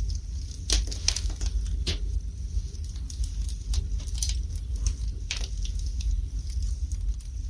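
Wood fire burning in a fireplace, crackling with sharp pops at irregular intervals over a low steady rumble.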